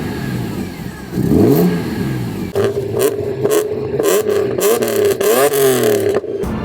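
A parked car's engine being revved: one blip rises and falls about a second in. It is then held higher with a wavering pitch and cuts off near the end.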